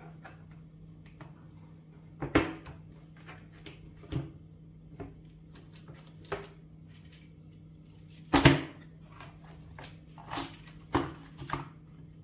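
Scattered plastic clicks and knocks as an IBM Model M keyboard's parts are handled and taken apart. The knocks come at irregular intervals; the louder ones fall a little over two seconds in and, loudest of all, about eight and a half seconds in.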